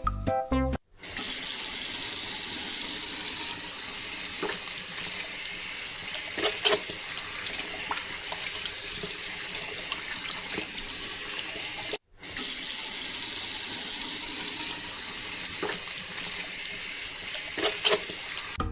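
Water gushing steadily from a mini water pump's outlet hose, with two sharp knocks partway through and near the end. The flow breaks off for a moment about twelve seconds in, then resumes.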